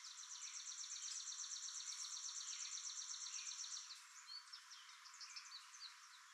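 A bird singing a fast trill of high repeated notes, about eight a second, for nearly four seconds, then a few scattered short chirps.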